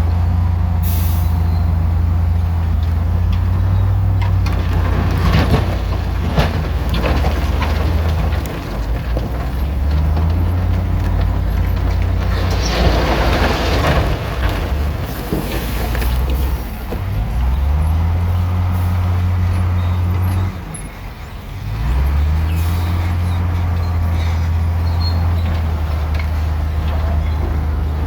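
Heavy diesel engine of earthmoving machinery running under load, its deep drone stepping up and down in revs several times and dropping briefly just before the last third. Around the middle there is a short burst of hissing, rattling noise over the engine.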